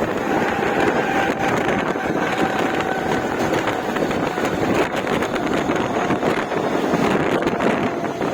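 Mumbai suburban fast local (electric multiple unit) train running through the yard: a steady rumble of wheels on track with a faint whine and scattered clicks, and wind buffeting the microphone.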